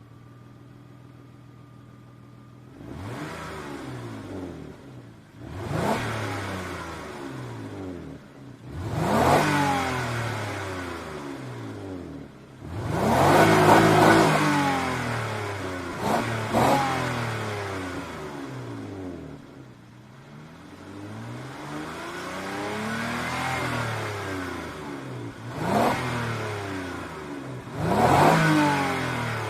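Nissan Maxima QX 3.0 V6 (VQ30DE) through its stock exhaust: idling steadily for a few seconds, then revved repeatedly, the pitch rising and falling with each of about eight blips, the biggest about halfway through.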